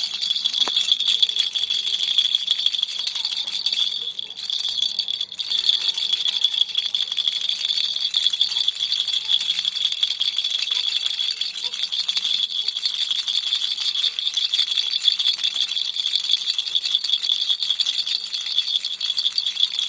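Baby toy rattle shaken continuously: a dense, fast, high rattling that thins briefly about four to five seconds in, then carries on.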